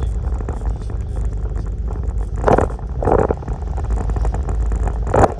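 Steady low rumble of a car driving, heard from inside the cabin, with four short louder sounds about halfway through and near the end.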